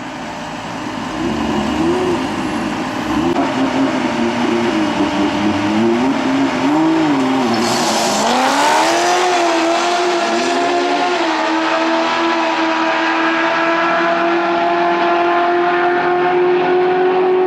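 Supercharged Corvette V8 revved in short blips, its pitch rising and falling, then a short burst of hiss about eight seconds in as it pulls away hard, the engine note climbing and then holding a long, slowly rising tone under full throttle.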